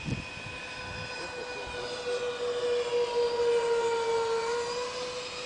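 Twin ducted fans of an R/C SR-71 Blackbird model jet whining in flight. The whine grows louder towards the middle as the model passes, then dips slightly in pitch and eases off.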